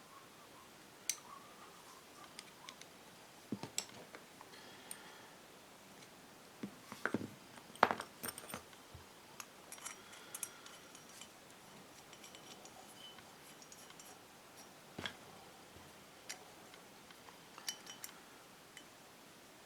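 Small metal carburetor parts and hand tools clicking and clinking as they are handled and set down during disassembly. There are scattered separate knocks, some ringing briefly, and they are loudest near the middle.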